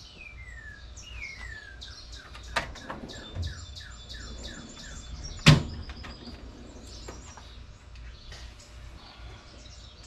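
Songbirds chirping, a run of quick falling notes in the first few seconds. About five and a half seconds in comes a single sharp metallic clank, the loudest sound, as tools are handled in a toolbox drawer.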